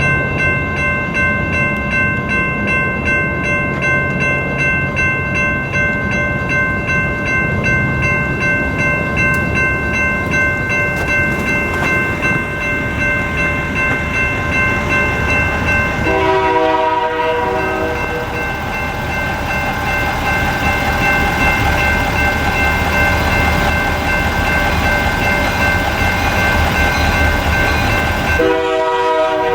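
NEG electronic crossing bell ringing steadily at an active railroad crossing, over the low rumble of the diesel locomotives of a slow Union Pacific train. The locomotive's horn sounds two short blasts, one a little past halfway and one near the end.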